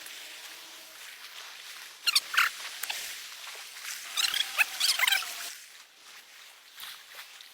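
High-pitched animal calls in two bursts of squeals, one about two seconds in and a longer one around the fourth to fifth second.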